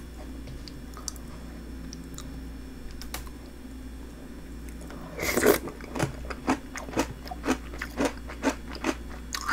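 Close-up chewing of a mouthful of crunchy snack bingsu, milky shaved ice with cookies and biscuit snacks. After a few quiet seconds with faint mouth clicks, the crunching starts about five seconds in with one loud bite, then goes on steadily at about two crunches a second.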